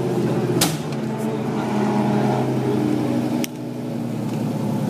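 Vehicle engine running steadily, broken by two sharp clicks, one about half a second in and one about three and a half seconds in; the sound dips briefly after the second.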